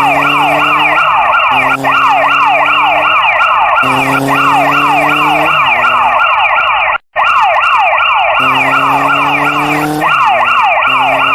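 Electronic siren-like wail: quick falling sweeps, about four a second, over a lower steady tone that shifts in pitch every couple of seconds. It cuts out briefly about seven seconds in.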